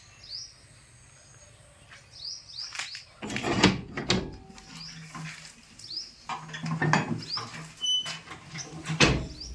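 Pet parrot giving short rising chirps again and again, with loud knocks and rustles in between.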